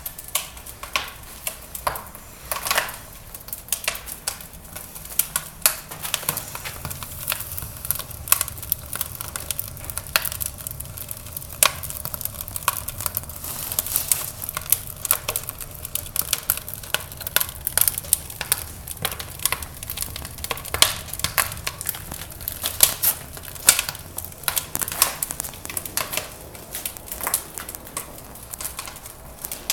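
Wood fire crackling in a fireplace: irregular snaps and pops over a soft hiss, with a low steady hum coming in about six seconds in.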